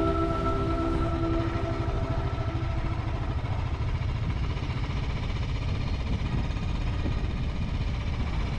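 Steady low rumble of a motorcycle ride: engine and road noise mixed with wind on the microphone. Background music fades out over the first two seconds or so.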